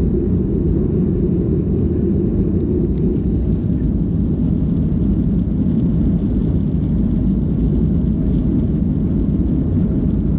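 Steady low rumble of a Boeing 737-300's CFM56 jet engines and rushing air, heard inside the cabin, with a faint high whine over it.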